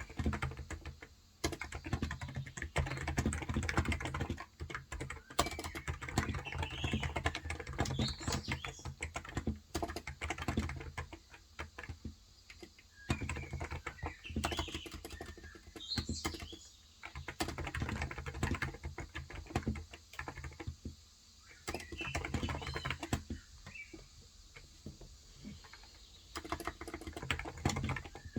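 Fast typing on a Cox Endeavour electrostatic-capacitive (non-contact) keyboard with 35 g switches: runs of soft key clicks with short pauses between them. Birds chirp briefly in the background several times.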